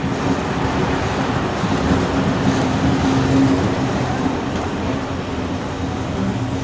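A steam-hauled heritage train running, heard from aboard the carriages behind its two steam locomotives: a steady rumble of wheels on rails with a steady hum that swells about two to three seconds in.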